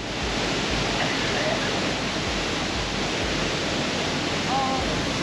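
Steady roar of the Ouzoud waterfall, a dense even rush of falling water, with faint voices briefly over it about a second in and again near the end.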